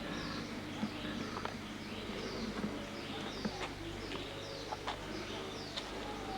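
Wild birds calling: many short, high chirps that drop in pitch, repeating throughout, with a few sharp clicks over a steady low hum.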